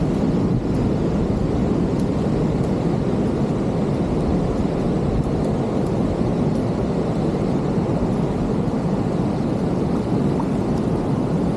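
Steady low rushing noise of big surf breaking and creek water running, with wind rumbling on the microphone.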